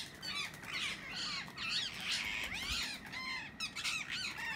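A flock of birds calling in a tree: many short, overlapping chirping calls that rise and fall in pitch, keeping up a steady chatter.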